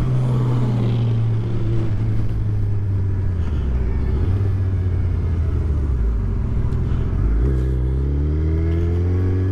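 Suzuki Hayabusa's inline-four engine running under way. Its pitch sinks slowly for the first several seconds, then rises as the bike accelerates over the last two seconds.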